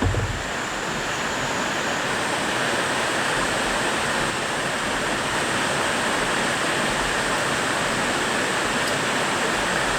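Mountain stream rushing steadily and loudly, an even wash of flowing water, with a brief low knock right at the start.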